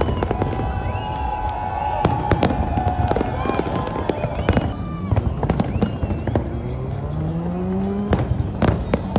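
Fireworks exploding: many sharp bangs and crackles going off in quick succession, with voices from the crowd underneath.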